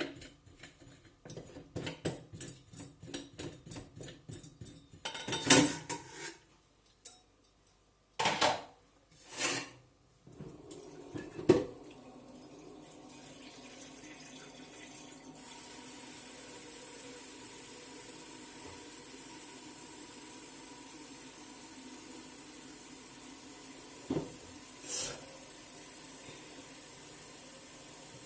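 Pots and pans clanking and knocking while a pot of beans is readied, then a steady rush of running water that carries on to the end, broken by a couple of knocks near the end.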